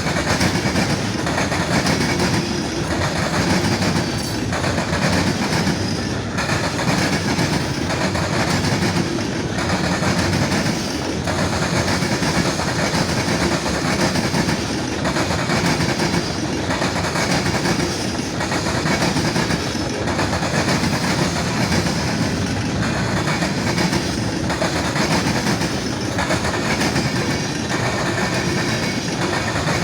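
Freight cars of a Norfolk Southern mixed freight train rolling past, wheels clicking steadily over the rail joints in a regular beat.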